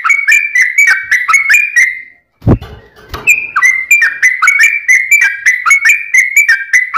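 Yellow-vented bulbul (trucuk) singing a fast, unbroken chatter of clipped, sliding whistled notes. The song breaks off after about two seconds for a short low thud, then starts again and runs on at the same rapid pace.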